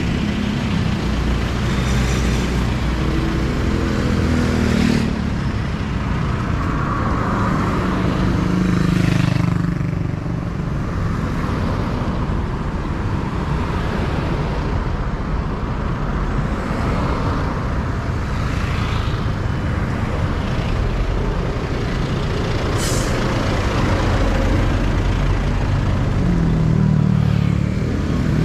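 Road traffic passing close by: cars and trucks going past one after another over a steady low rumble, with a short sharp hiss about two-thirds of the way through.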